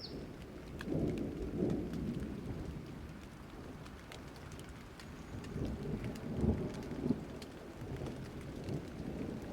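Steady rain falling, with low rolling thunder rumbling twice: once about a second in and again around six seconds in.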